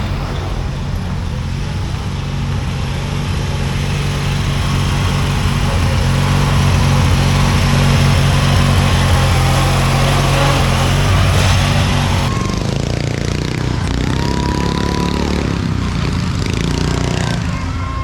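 Small engine of a racing riding lawn mower running hard, growing louder toward the middle. About twelve seconds in the sound changes abruptly and goes duller.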